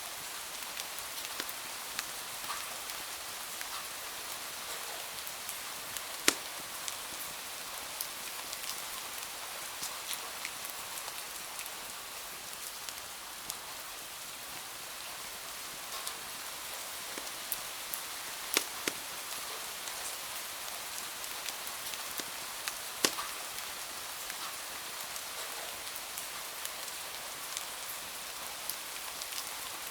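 Steady rain hiss mixed with a wood fire crackling in a fireplace: small clicks throughout and three sharp, louder pops, about six seconds in, just past the middle, and about two-thirds through.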